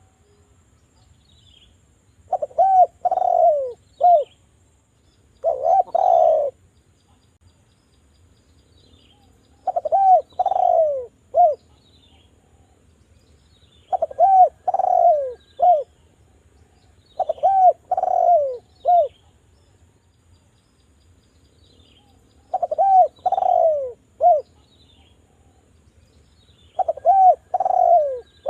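Derkuku (island collared dove) cooing in repeated phrases of three or four arched coos, a phrase every three to four seconds with short gaps between.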